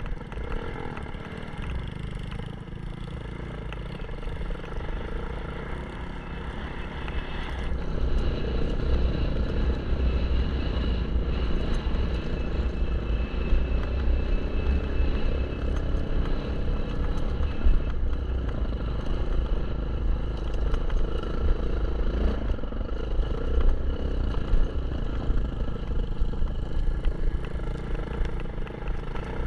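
Kawasaki KLX 150 dirt bike's single-cylinder four-stroke engine running while being ridden, its pitch rising and falling with the throttle. It gets louder about eight seconds in.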